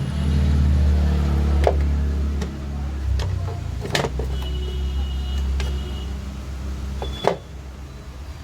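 A motorcycle engine running steadily, louder in the first couple of seconds and then settling. A few sharp metallic clinks sound over it.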